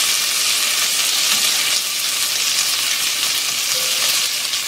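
Chopped onion, garlic, Thai chilies and freshly added whole cherry tomatoes frying with a steady sizzle in a cast-iron Dutch oven.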